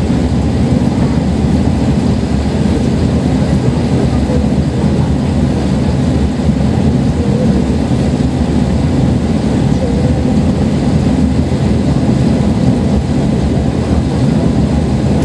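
Running noise heard inside a Kashima Rinkai Railway diesel railcar under way: a steady low rumble of the engine and the wheels on the rails, with no breaks or sudden events.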